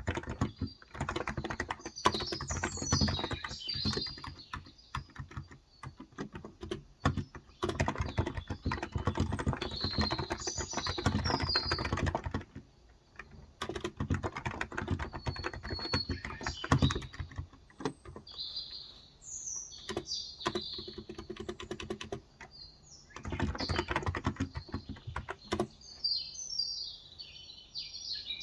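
Typing in bursts of several seconds with short pauses between, on a Cox Endeavor electro-capacitive (Topre-style) tenkeyless keyboard with 35 g switches. Small birds chirp throughout.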